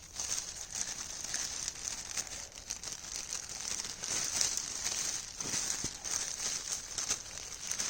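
Clear plastic sheeting crinkling and rustling as it is wrapped around a stick, with many small irregular crackles.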